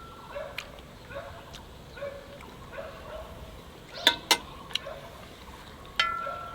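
A dog barking faintly and repeatedly. About four seconds in there are two sharp clicks close together, and near the end a single chime-like ring that dies away over about a second.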